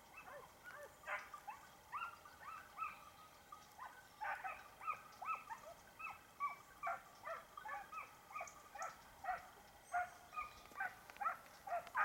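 An unidentified bird giving short, arching calls, two or three a second in uneven runs.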